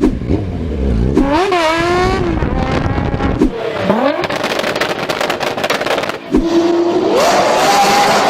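An engine with a big, loud exhaust revving in repeated quick blips, its pitch jumping up and falling back, over a deep rumble for the first few seconds. Near the end a longer rev climbs and holds.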